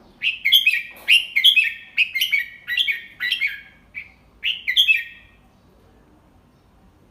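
Red-whiskered bulbul singing: a quick run of about a dozen short whistled notes for about five seconds, then a pause.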